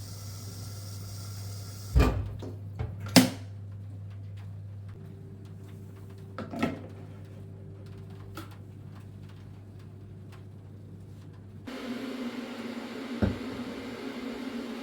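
Indoor household handling sounds: two sharp knocks about 2 and 3 seconds in, then a few lighter clicks over a steady low hum. Near the end the background changes to a louder steady hum and hiss, with one more knock.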